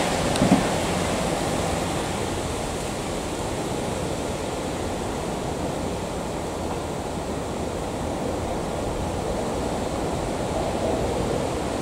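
A Class 158 diesel multiple unit running away from the listener, its sound fading into a steady, even noise much like wind, with one brief knock about half a second in.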